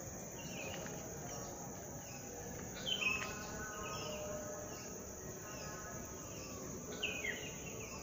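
Birds calling from trees in the dark before dawn: short, bright calls that slide downward in pitch, about three seconds in and again near the end, over a steady chirring of insects.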